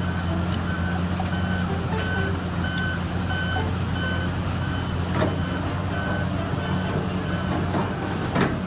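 Reversing alarm on heavy construction equipment beeping steadily, a bit more than once a second, over a diesel engine's steady running. Two sharp clanks come about five seconds in and near the end.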